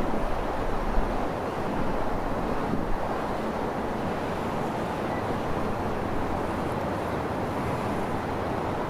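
CSX freight train rolling past, a steady rumble and roar of steel wheels on the rails that stays level throughout.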